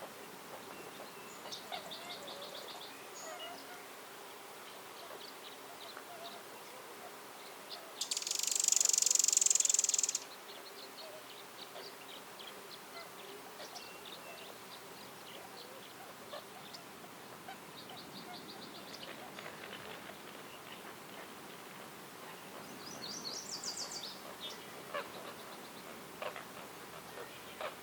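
Forest ambience of scattered bird calls and short rapid trills over a faint steady background. About eight seconds in, a loud high buzzing hiss lasts about two seconds.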